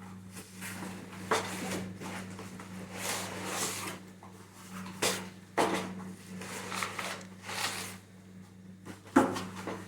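Vacuum cleaner parts and packaging being handled: a few sharp knocks and clicks, four of them loudest, with rustling in between.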